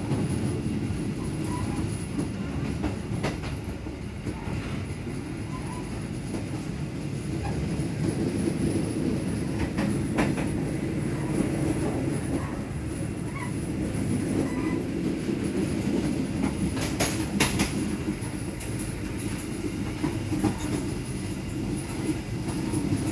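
Inside a moving passenger train coach: a steady low rumble of the wheels running on the rails, with a few sharp clacks, several close together about two-thirds of the way through.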